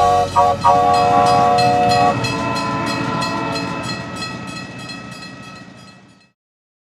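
Train sound effect: a multi-note train whistle blows, broken twice briefly at first and held until about two seconds in. Under it runs a rhythmic chugging of about four beats a second, which fades away by about six seconds.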